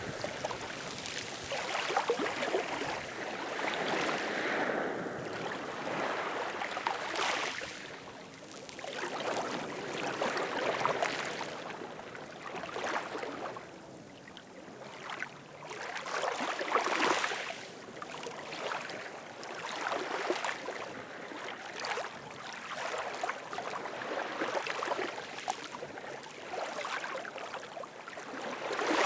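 Ocean surf: waves breaking and washing up, the noise swelling and fading every few seconds.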